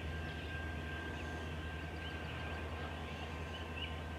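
Quiet outdoor night background: a steady low hum with a thin steady high tone, and short high chirps repeating several times a second.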